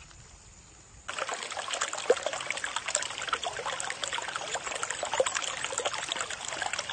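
Stream water trickling and splashing over rocks, a dense spattering that starts suddenly about a second in and cuts off suddenly at the end.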